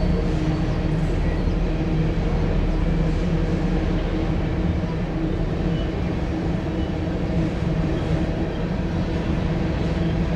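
Diesel freight train passing: a steady drone of locomotive engines with their even hum of tones, over the rumble of rolling wheels.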